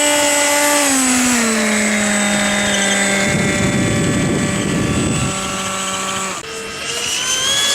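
Electric ducted fan of an RC F-117 stealth jet model running at high throttle: a loud, steady whine that drops in pitch about a second in. A rough noise joins it for about two seconds in the middle. The whine dips briefly near the end, then climbs in pitch again.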